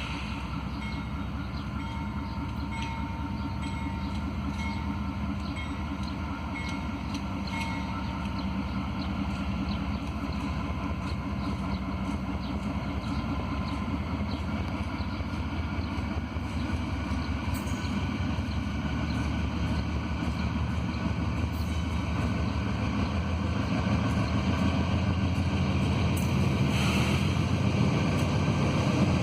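GE AC44i diesel-electric locomotive running as it approaches, its low engine drone growing steadily louder, with scattered sharp clicks.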